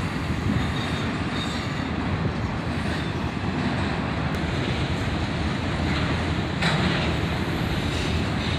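Cars of a long freight train rolling past: a steady rumble of wheels on the rails, with a brief rise in higher-pitched rail noise about seven seconds in.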